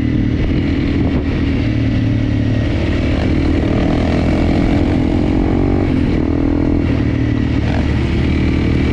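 Enduro motorcycle engine running under way, its pitch rising a little in the middle and easing off about six seconds in.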